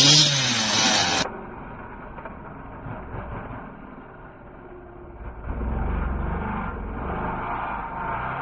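Dirt bike engine revving with a rising and falling pitch. About a second in it cuts to a duller, muffled engine sound with rumble, which grows louder about halfway through.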